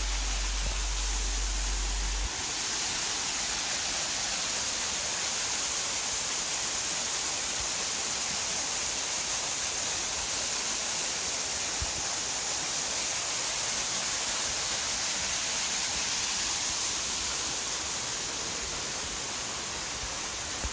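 Waterfall: a steady, even rush of falling water, with a low rumble during the first two seconds.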